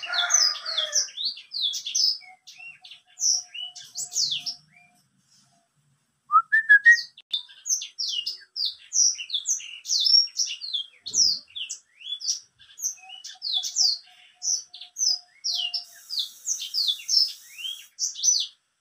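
Blackthroat (black-throated canary) singing a long, fast song of rapid high chirps and trills, breaking off for about a second about five seconds in and then singing without a break until just before the end.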